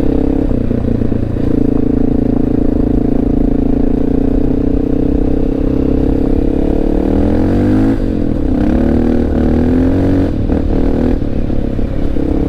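Honda XR650L's single-cylinder engine pulling steadily under load on a hilly gravel climb, its pitch falling and rising again about seven seconds in as the throttle is eased and reopened, and changing again near the end.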